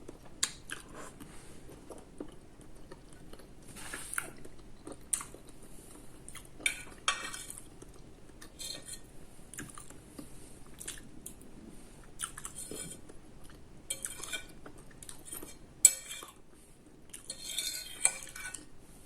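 Cutlery clinking and scraping on a plate as a meal of spaghetti and cucumber is eaten, with many short, irregular clinks and some chewing between them.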